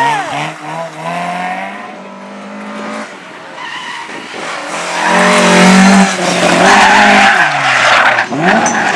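Race car engine revving hard with pitch rising and falling through gear changes, along with tyre squeal and skidding. It is quieter for a few seconds and then grows loud about halfway through as the car comes close.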